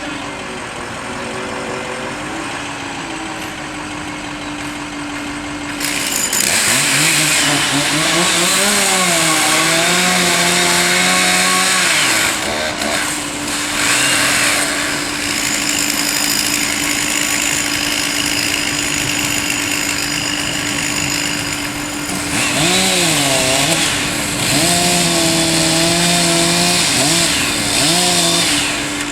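Tree-removal power equipment: a steady engine hum, joined about six seconds in by long stretches of loud, rough cutting noise, with an engine revving up and down.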